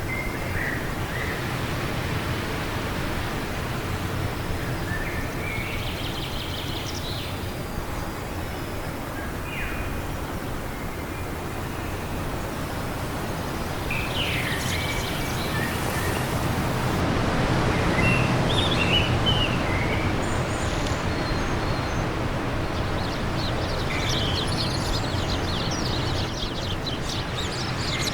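Wind blowing steadily, swelling for a few seconds around the middle, with songbirds chirping in short scattered calls and a quick run of calls near the end.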